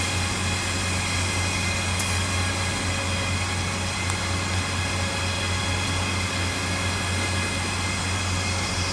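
Welding equipment running steadily: a constant low hum with several steady high-pitched tones over a hiss.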